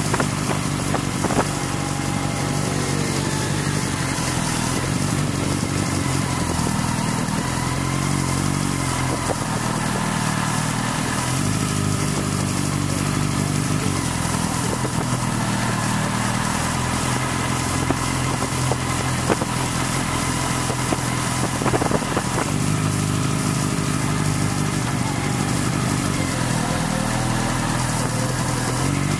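Motorcycle engine running at low speed and idling, with a few small rises and falls in pitch as the throttle is opened and closed, and a few short knocks now and then.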